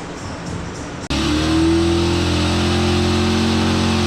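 A car engine cuts in abruptly about a second in, revs up briefly, then holds at a steady raised rpm through the exhaust.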